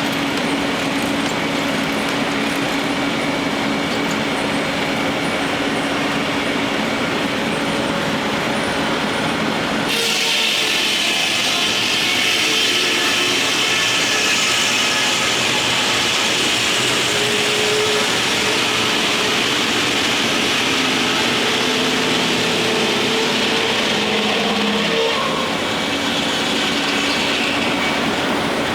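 Steam-powered sawmill running. About a third of the way in, a harsher, higher noise starts abruptly with a steady whine, like the circular saw cutting through a log, and eases a few seconds before the end.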